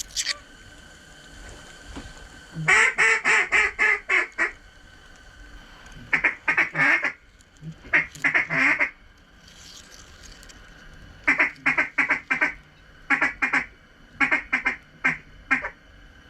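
Loud runs of mallard-hen-style quacks, about five to ten quick notes per run, coming six times with short pauses between.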